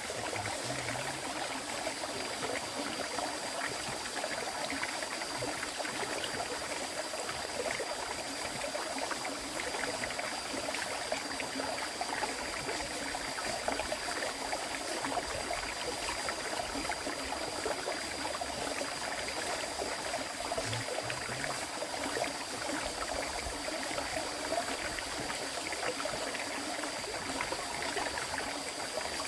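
River water flowing steadily, a continuous even rush without pauses.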